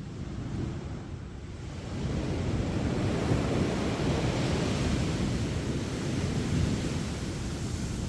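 Sea surf breaking on a sandy beach: a steady wash of waves that swells about two seconds in as a wave breaks and runs up the shore, easing off near the end.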